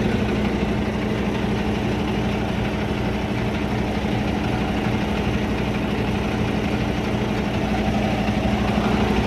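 Semi truck's engine idling steadily, an even hum with a constant pitch.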